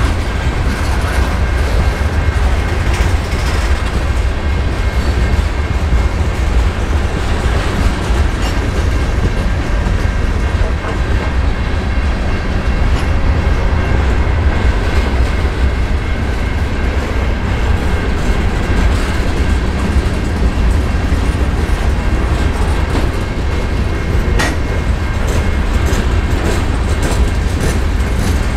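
Freight train's covered hoppers and boxcars rolling past close by: a loud, steady rumble of steel wheels on the rails.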